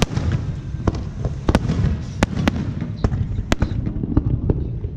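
Fireworks display: aerial shells bursting in an irregular series of sharp bangs, about two a second, over a continuous low rumble.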